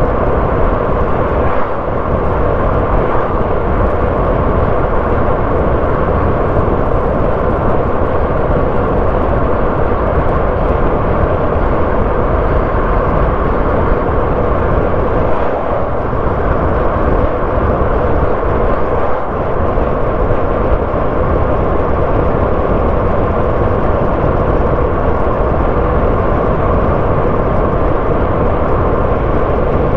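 A car driving along a road: steady tyre and engine noise, with slight dips in level about two seconds in and around the middle.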